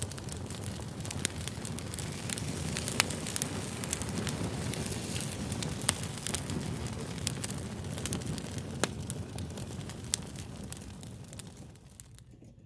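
Wood fire crackling: a steady low rush with sharp pops scattered throughout, the loudest about 3 and 6 seconds in. It fades down shortly before the end.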